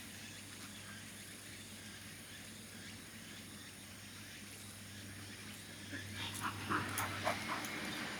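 A terrier whimpering: a handful of short whines about six seconds in, over a faint steady hum.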